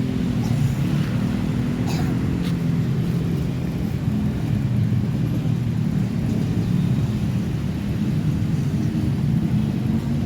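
A vehicle engine running steadily with a low rumble, with a couple of faint clicks about two seconds in.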